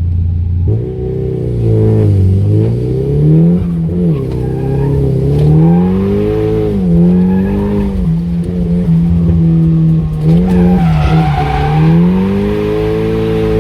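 Nissan S15 Silvia's engine revving up and down over and over, held in second gear while drifting, with tyres squealing about three-quarters of the way through.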